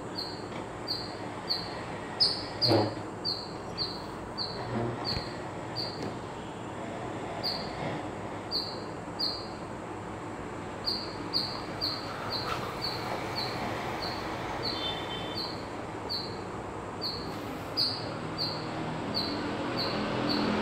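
A bird chirping over and over, short high chirps about two to three a second, with a few sharp knocks of chalk marking a blackboard, the loudest about two to three seconds in.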